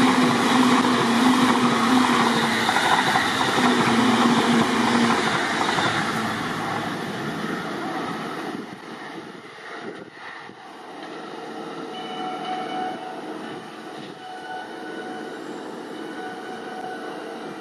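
JR East E657 series limited-express train running through the station at speed close by: a loud rush of wheels on rail with a low hum under it, fading over the first several seconds. After a sudden drop, a distant E657 approaching is heard more quietly, with faint repeated tones over it.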